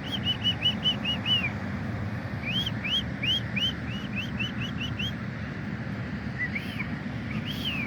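A bird calling in quick runs of clear, arched whistled notes, about seven a second: one run at the start, a longer one from about two and a half to five seconds in, then two single notes near the end. A steady low rumble of background noise runs underneath.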